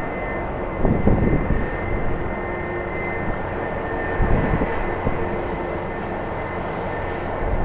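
Jet airliner's engines running, a steady whine over a constant rush of noise.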